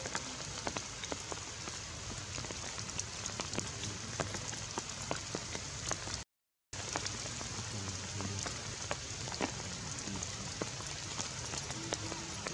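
Steady rain falling, with many sharp drop ticks striking close by. The sound cuts out completely for half a second a little past the middle.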